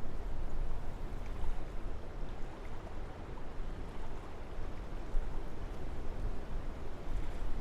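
Wind blowing through forest trees: a steady rushing noise with a deep rumble that swells and eases in gusts.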